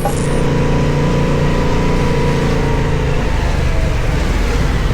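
Motorcycle engine running at a steady speed under wind and road noise; the engine note fades out about three seconds in.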